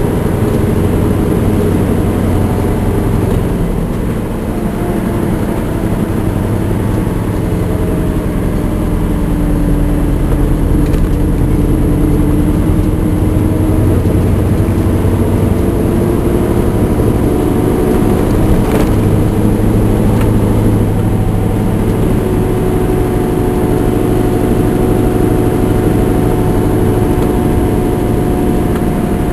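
Scania R580's V8 diesel engine pulling hard up a steep climb with a near fully loaded truck of about 41 tonnes. Its note falls slowly over the first ten seconds or so, then rises again about halfway through and holds steady.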